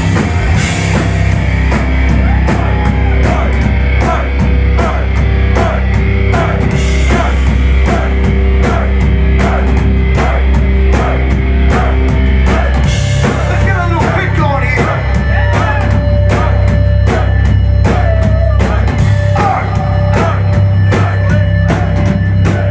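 Heavy metal band playing live and loud: distorted guitars and bass over a driving drum kit, the riff changing about halfway through.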